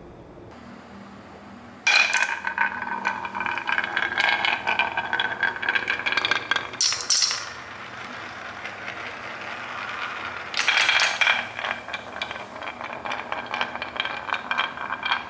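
Marbles rolling and clattering down a marble-run track, with quick clicks and clinks in two runs: one starting about two seconds in, and another about ten seconds in.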